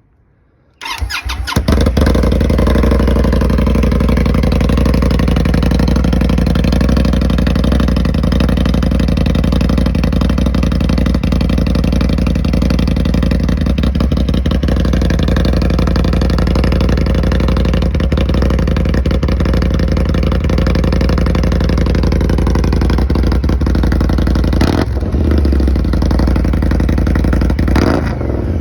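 2022 Indian Scout Rogue's liquid-cooled V-twin cranks and starts about a second in through a Rogue Pipe Works Accelerant 2-into-1 exhaust, then idles with a loud, steady low rumble. Near the end the throttle is blipped twice, the revs rising and falling briefly.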